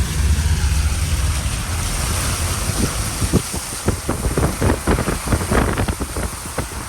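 Vehicle driving through deep floodwater on a road: a low engine and road rumble under a steady hiss of water, then from about halfway a quick irregular run of splashes as water slaps against the vehicle.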